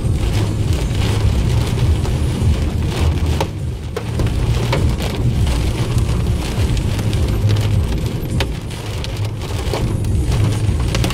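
Heavy rain pelting a moving car, heard from inside the cabin: a steady low rumble of engine and road under the hiss of the downpour, with scattered sharp ticks of drops striking the body and glass.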